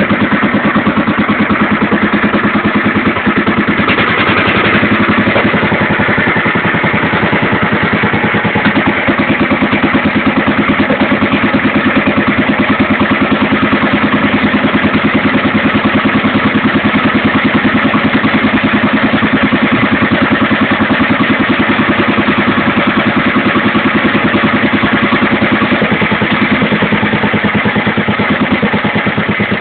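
1926 Bernard W2 stationary engine running steadily at a fast, even firing beat, just after catching on its start.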